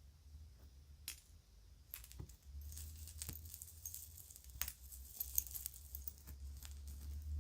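Children's toy jewelry being handled: small pieces click, clink and jingle against one another in a busy run that starts about two seconds in, over a low handling rumble.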